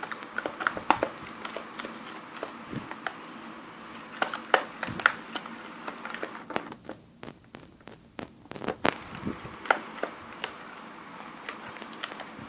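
Slime and water being stirred in a container with a stirrer: irregular wet clicks, taps and squelches, with a quieter stretch about six to eight seconds in.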